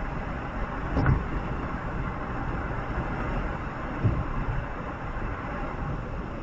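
Steady rumbling ride noise of a vehicle in motion, with a sharp knock about a second in and a dull thump about four seconds in.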